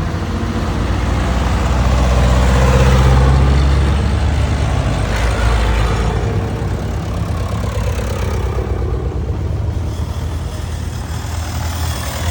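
Vehicle engine and road noise heard from inside the cabin: a steady low engine hum that grows louder about two to four seconds in, then eases off.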